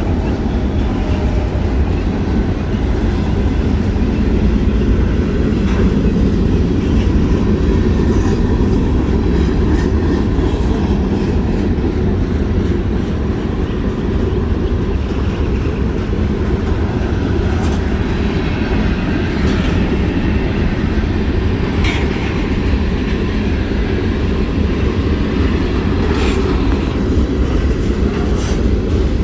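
Freight cars of a long CSX mixed freight train rolling past: a steady, loud rumble of steel wheels on rail with occasional sharp clanks and clicks.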